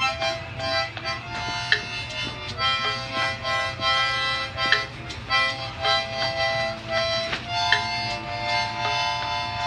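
Harmonica music: a tune played in held notes and chords that change every second or so, over a steady low hum.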